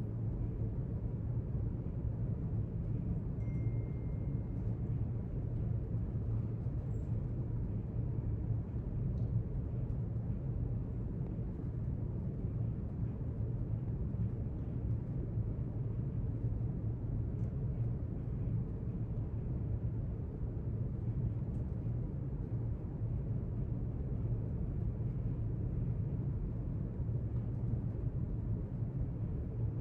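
Steady low rumble of library room ambience, unchanging throughout, with a brief faint high tone about three and a half seconds in and a few faint ticks.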